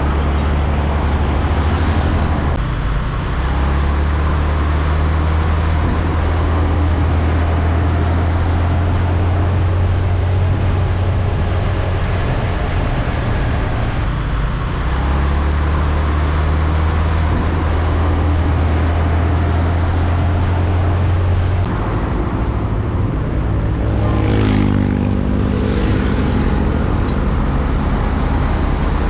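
Road traffic with heavy trucks going by and a deep, steady engine rumble. About two-thirds of the way through, one vehicle's engine note shifts in pitch as it passes.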